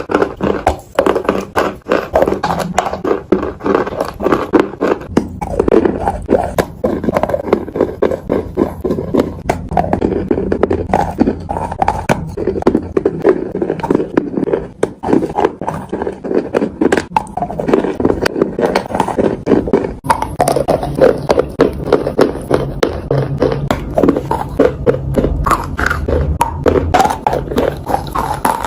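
Close-miked chewing and crunching of food, rapid crisp crunches several times a second without a break.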